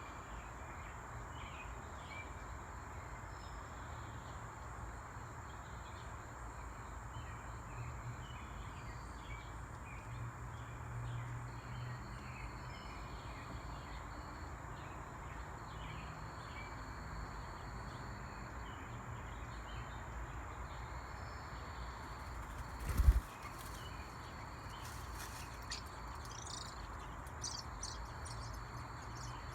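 Outdoor ambience of scattered short bird chirps over a steady high insect drone, with a single loud thump about three-quarters of the way through.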